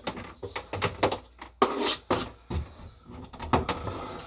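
Irregular knocks, clicks and clatter of items being handled and set down on a kitchen counter, with rustling between them.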